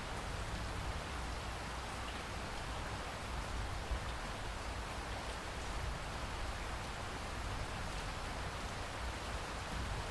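Steady rain falling, an even hiss of drops with a low rumble underneath and one slightly louder drop or tap about four seconds in.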